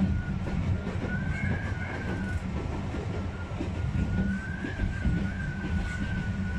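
Narrow-gauge Sangi Railway Hokusei Line train running along the track, heard from the cab: a steady low rumble with a thin, wavering high whine over it.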